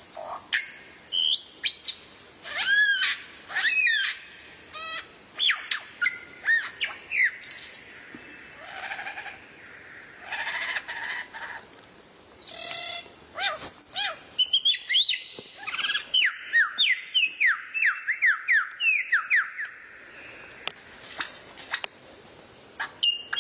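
Songbird singing a varied song of sharp whistles, chirps and trills, with a fast run of short falling notes through the second half.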